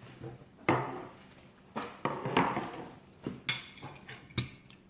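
Cutlery knocking and scraping on dinner plates during a meal: several separate sharp clinks, one about three and a half seconds in ringing briefly.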